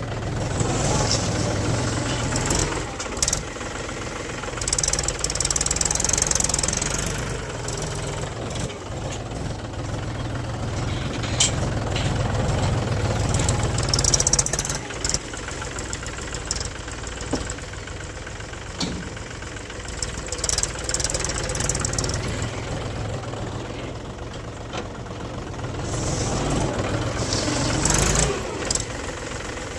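Mahindra tractor's diesel engine running under load, its sound swelling and easing several times, with a few sharp knocks along the way.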